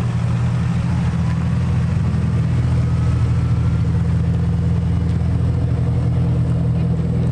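Mitsubishi Lancer Evolution's turbocharged four-cylinder engine running steadily at low revs as the car crawls past close by.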